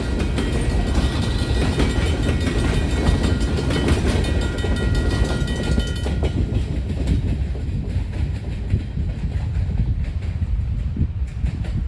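Freight train rolling over a grade crossing, with low rumble and clickety-clack of wheels on the rails. Thin high-pitched tones ride over it and fade out about halfway through.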